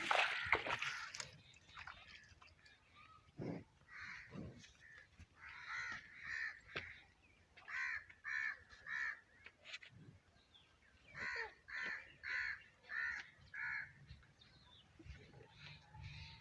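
Crows cawing in runs of two to five harsh calls, about half a second apart, with a loud noisy burst at the very start and a couple of low thuds early on.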